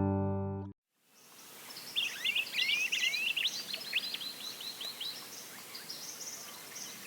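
Guitar music cuts off under a second in; then a flock of Mulga parrots calling over a steady outdoor hiss, a flurry of quick high chirps that thins out and grows fainter after the first few seconds.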